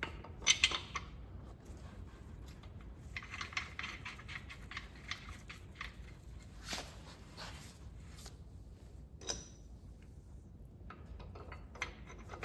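Metal parts and hand tools clinking while main bearing caps are fitted to a Chrysler 440 big-block's crankshaft. There is a sharp clink about half a second in, a run of rapid small clicks a few seconds in, and a few single knocks after that.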